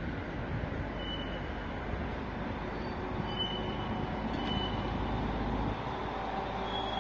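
Train running through a railway station: a steady low rumble with a few short high squeaks.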